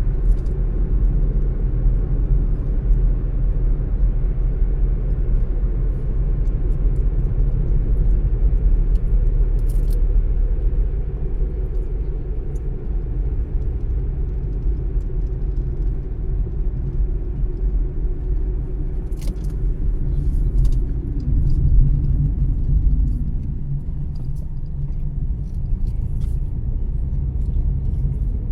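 Car driving along a road: a steady low rumble of engine and tyre noise. A few faint short clicks come about two-thirds of the way through.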